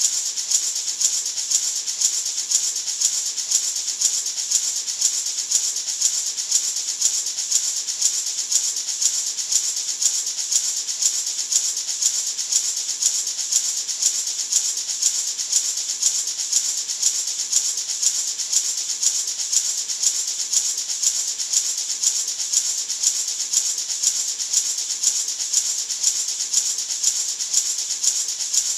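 Gourd maraca shaken continuously in a fast, even rhythm: a steady, hissing rattle with no pauses.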